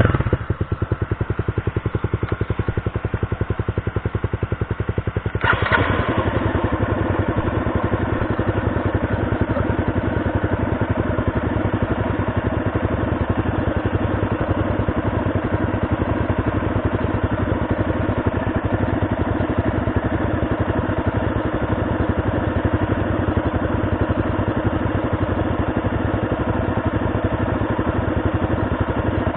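2018 Yamaha XT250's air-cooled single-cylinder four-stroke engine idling, then about five seconds in getting suddenly louder and running on at a steady, even note.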